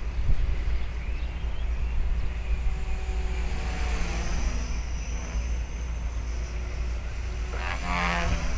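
450-size electric RC helicopter in flight, with rotor blade slap and a motor whine that rises and falls in pitch. Gusty wind rumbles on the microphone, and a gust interrupts the blade slap.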